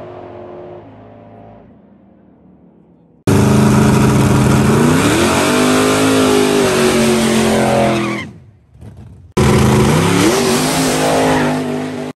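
Drag-racing car engine launching at full throttle and accelerating hard, its revs climbing and dropping back as it pulls through the gears; the sound starts and stops abruptly twice. Before that, another car's engine fades away into the distance.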